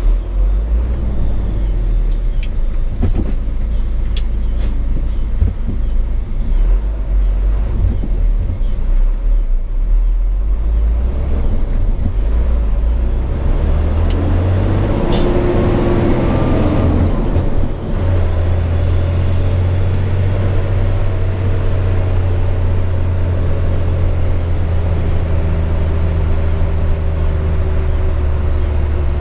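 Hino 500 FM 260 JD truck's six-cylinder diesel engine running under way, heard from inside the cab as a steady low drone. About halfway through the note glides and briefly dips, then settles into a steadier, stronger drone.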